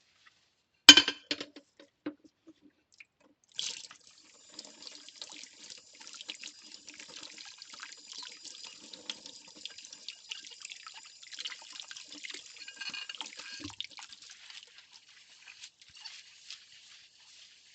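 A ceramic plate knocks against the sink with one sharp, ringing clink about a second in. A few seconds later the tap comes on and water runs and splashes over the dishes, thinning to trickles and drips near the end.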